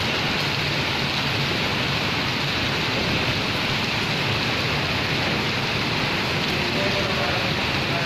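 Heavy tropical downpour: a steady, even hiss of dense rain falling, with no let-up.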